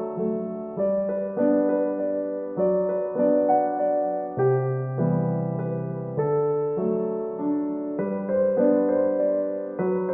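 Soft background piano music, chords struck about every half second and left to ring.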